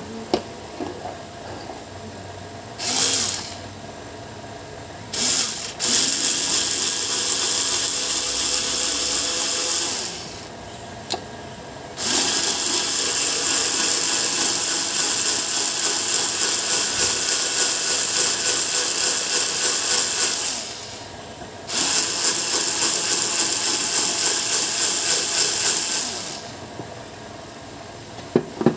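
Electric sewing machine driven by a 220 V AC motor, running in starts and stops: two brief runs, then longer runs of about four, eight and four seconds, each starting and stopping abruptly.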